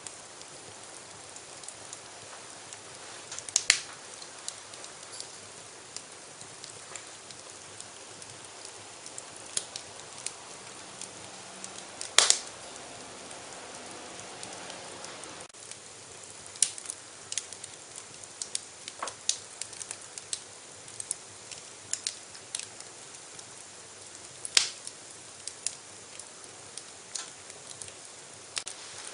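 Wood fire crackling in a fireplace: scattered sharp snaps and clicks over a soft steady hiss, with louder pops about 4, 12 and 25 seconds in, and the small crackles coming more often in the second half.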